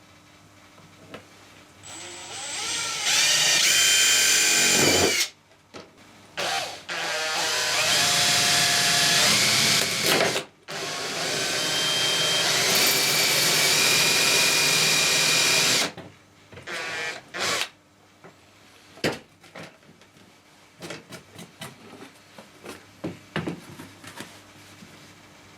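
Power drill running in three long bursts of a few seconds each, speeding up at the start of each run, with short blips between them. Scattered small clicks and knocks follow.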